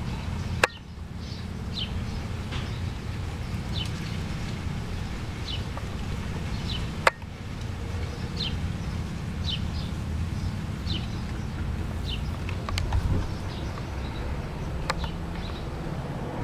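A bird chirping over and over, short high chirps about once a second, over a steady low rumble. Two sharp clicks cut in, one just after the start and one about seven seconds in.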